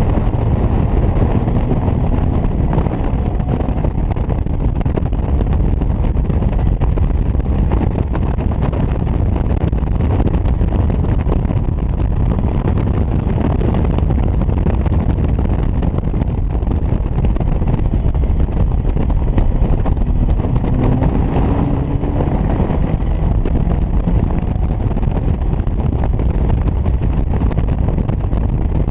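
Onboard sound of a Caterham Academy race car at speed, its 125 hp engine running under the steady rumble of wind buffeting the microphone in the open cockpit.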